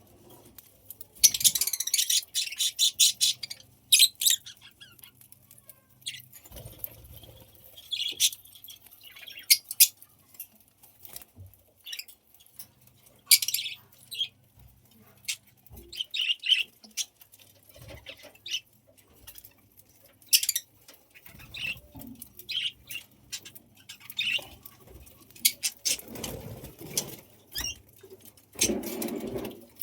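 Budgies chirping and chattering in short, scattered high-pitched calls, with a fast buzzy run of chatter about a second in. A faint steady hum sits underneath, and there is a louder rustle near the end.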